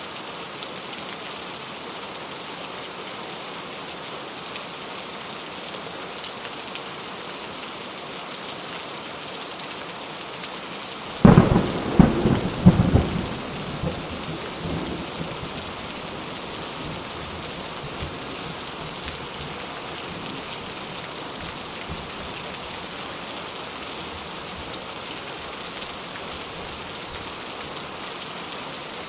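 Steady rain falling, with a clap of thunder about eleven seconds in: a sudden crack and a few sharp peaks over about two seconds, then a rumble fading back into the rain.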